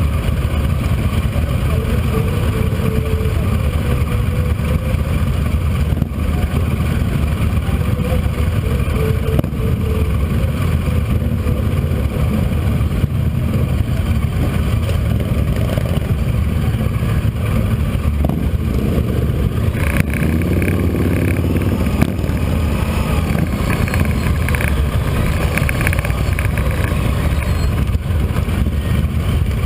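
Motorcycle engine running steadily during a ride, with a continuous low rumble. From about twenty seconds in, a second mid-pitched sound with a rapid pulsing pattern joins it.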